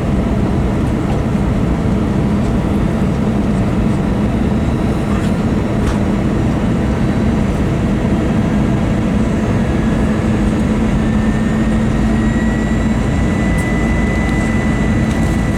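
Steady cabin noise inside an Airbus A321 airliner in flight during descent: engine and airflow rumble with a low hum running through it. A faint high whine rises slightly about ten seconds in and then holds.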